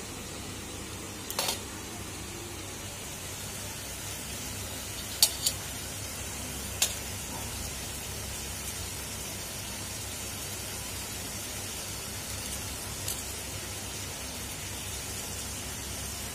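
Steady hiss of mutton curry sizzling in a steel wok, with a handful of sharp clinks, two of them close together about five seconds in.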